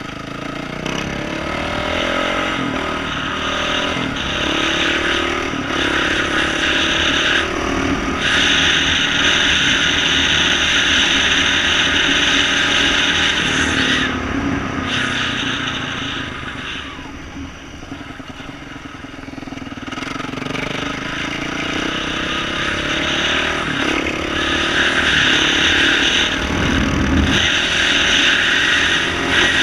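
2012 Yamaha YZ450F dirt bike's 450 cc single-cylinder four-stroke engine with an aftermarket exhaust, revving up and down as it is ridden. It eases off and goes quieter for a few seconds around the middle, then picks up again.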